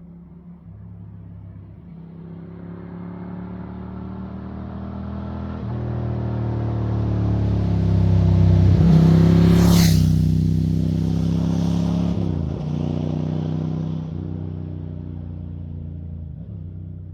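1997 Ducati Monster 900's air-cooled 900 cc V-twin engine, breathing through an open titanium exhaust with no dB-killer. The engine note grows louder to a peak a little past the middle, with a brief rush of noise at the loudest point, then fades away. The pitch steps and dips several times along the way.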